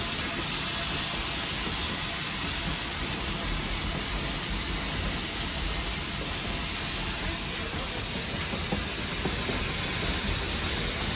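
Steady hiss of steam and low rumble inside the cab of Nevada Northern No. 81, a Baldwin 2-8-0 steam locomotive, working up a grade.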